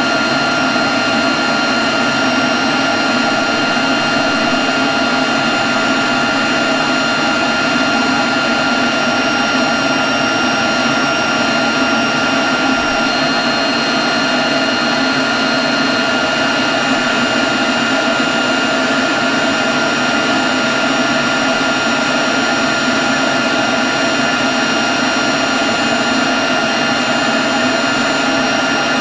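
Leaf blower running at a steady speed: a constant whine over a loud rush of air, with no change in pitch.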